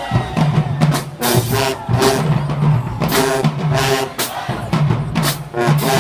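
High school marching band playing, with a steady drumline beat under sustained horn notes.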